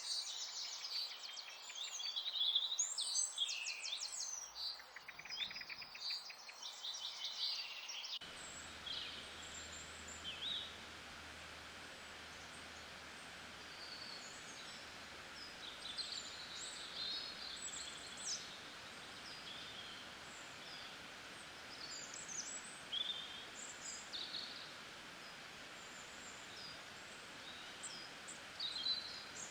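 Nature-sounds background of birds chirping: dense, rapid trills for the first eight seconds or so, then an abrupt change to a steady hiss with scattered short bird chirps.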